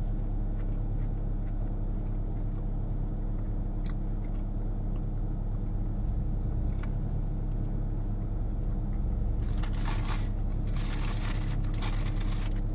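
Steady low hum of a car idling, heard from inside the cabin, with a few faint chewing clicks as a burrito is eaten. About three seconds before the end comes a stretch of crackly rustling, like a paper wrapper being handled.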